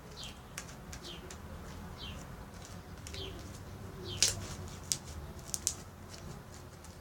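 A bird chirping over and over, short falling notes about once a second. A few sharp clicks come between about four and six seconds in, the loudest near four seconds.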